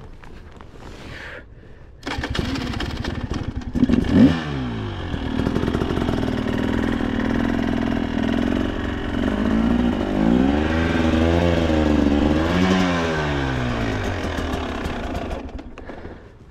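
KTM two-stroke enduro dirt bike engine firing up about two seconds in, then revving up and down with rising and falling pitch. It falls away near the end.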